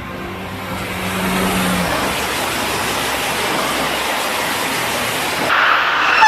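High-speed train running past, a steady rushing noise with a low hum in the first two seconds and a louder hiss near the end.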